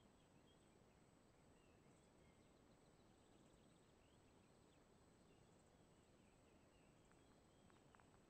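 Near silence: faint background hiss with a few faint bird chirps.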